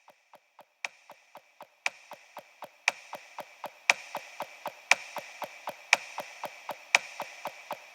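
Steady mechanical ticking, about four ticks a second, with a louder ringing tick once every second, growing gradually louder.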